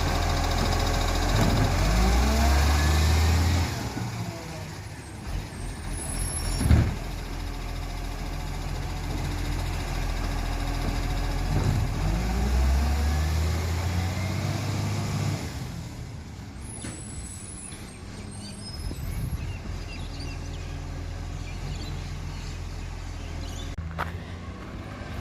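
Garbage truck's diesel engine running, its pitch rising and falling twice, with a short sharp air-brake hiss about seven seconds in; it then settles to a quieter steady running.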